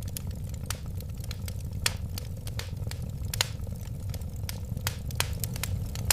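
Wood fire crackling: irregular sharp snaps and pops, several a second, over a steady low rumble of the flames.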